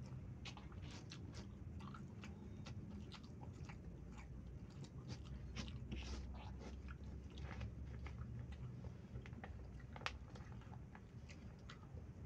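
Close-up chewing and crunching of fried food and rice eaten by hand, a steady run of small clicks and crackles, with one sharper click about ten seconds in.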